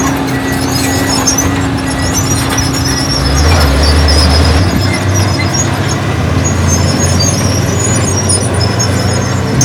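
Heavy diesel earthmoving machinery running steadily, with short high-pitched metallic squeaks recurring throughout; the engine note deepens and strengthens for about a second midway.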